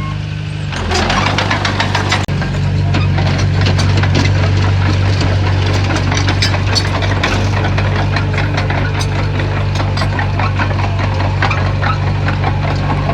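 Bulldozer's diesel engine running steadily and coming up under load about a second in, with many sharp clanks and knocks over it from the tracks and rock.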